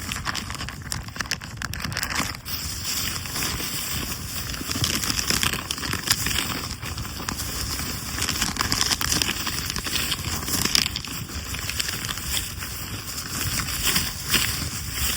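Wood campfire crackling, with frequent irregular pops and snaps over a steady hiss.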